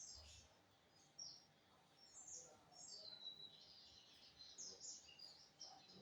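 Lined seedeater (bigodinho) singing faintly: a run of quick, high chirping notes, with a clearer falling note about three seconds in.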